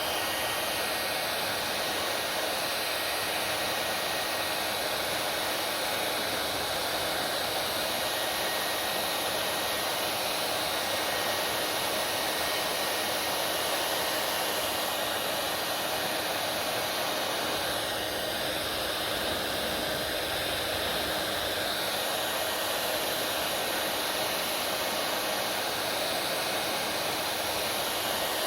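Hair dryer running steadily: a constant rush of blown air with a faint steady whine.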